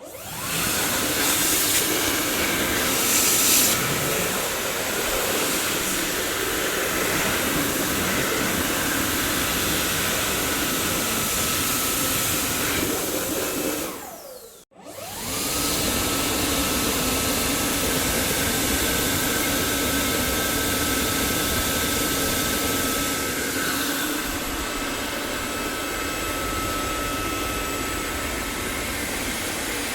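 Dyson vacuum cleaner motor running with a steady rushing air noise and a high whine. It starts up right at the beginning, stops for a moment about halfway through, and starts up again.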